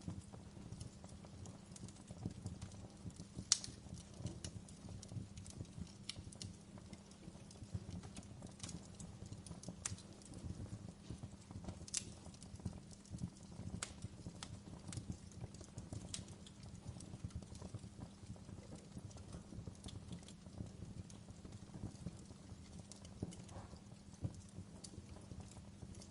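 Fire crackling: irregular sharp pops and snaps over a low, steady rumble of the flames. The loudest pops come about three and a half seconds in and again about twelve seconds in.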